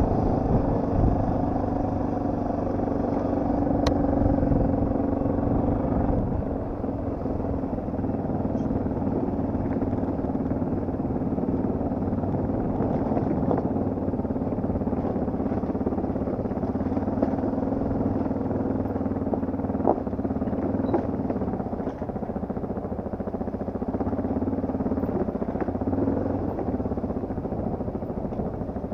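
Yamaha TT250R's air-cooled single-cylinder four-stroke engine running steadily while the bike is ridden, easing off slightly about six seconds in, with a few light knocks.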